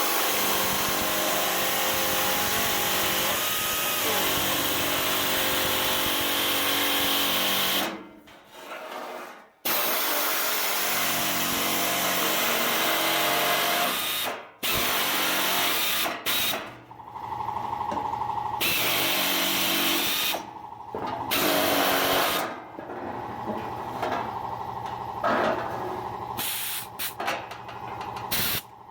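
Pneumatic air nibbler cutting through a sheet-steel truck floor pan: a fast, buzzing hammer rattle that runs in long bursts, with short stops between them. It turns quieter and more stop-start in the last third, around the turn in the cut.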